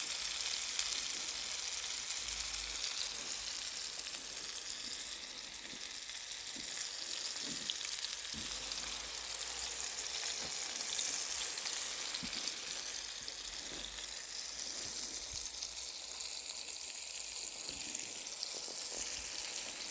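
Fish frying, with a steady high sizzle full of fine crackles.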